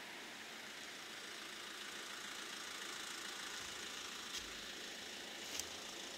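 Faint, steady running of a car engine idling while it waits at the closed crossing, with two short clicks near the end.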